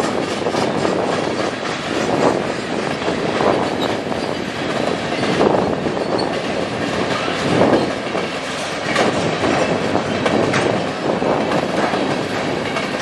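Manifest freight train's tank cars and boxcars rolling past: a steady rumble of steel wheels on rail, with louder clacks every couple of seconds as wheel sets cross the rail joints.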